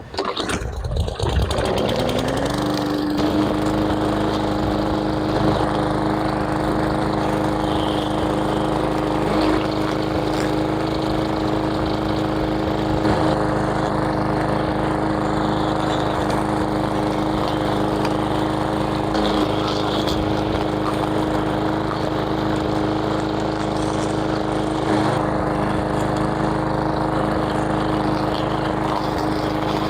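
A power tool's motor starts, rises in pitch over about two seconds, then runs at one steady speed, with a few faint knocks now and then.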